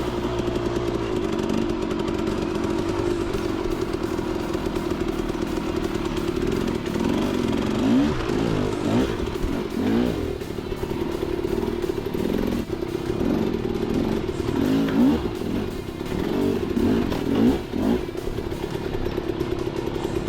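Dirt bike engine running while riding, its revs rising and falling again and again through the middle of the stretch.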